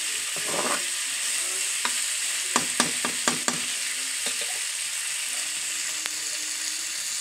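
Pork pieces sizzling in hot oil as they dry-fry in a pan, a steady high hiss. A spatula stirs and scrapes the meat, with a quick run of about five sharp clicks against the pan a little under halfway through.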